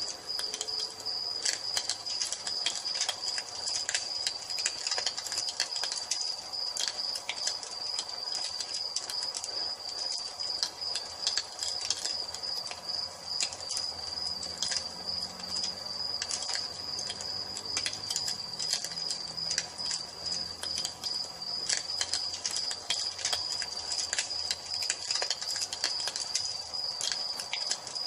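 Crickets chirping steadily in a fast, even trill, over a wood fire crackling and popping.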